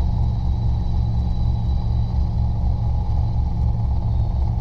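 Robinson R22 helicopter in flight: its piston engine and two-blade main rotor make a steady low drone with a fast beating pulse, and a thin high whine runs over it.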